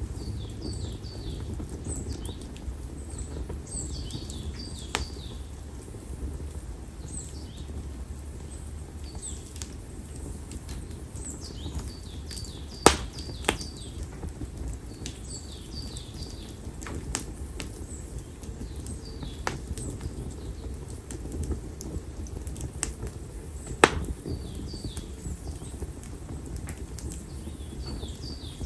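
Konara oak firewood burning in an open fire, a low steady rumble with sharp crackles and pops, two loud pops standing out about halfway through and about five-sixths of the way through. Small birds chirp repeatedly in the background.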